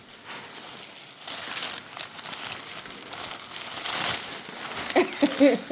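Newspaper crinkling and rustling in irregular bursts as pet parrots play with it, loudest about four seconds in. A short pitched call is heard near the end.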